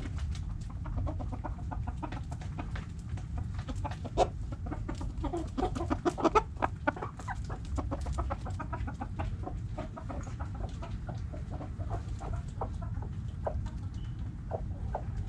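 Backyard hens clucking: a run of short, repeated clucks from several birds, busiest and loudest around the middle.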